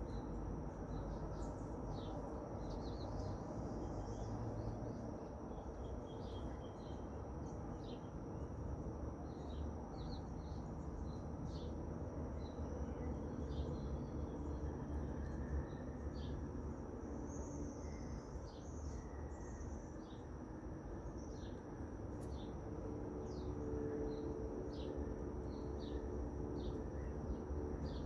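Small birds chirping, with many short, scattered calls over a steady high-pitched whine and a low background rumble.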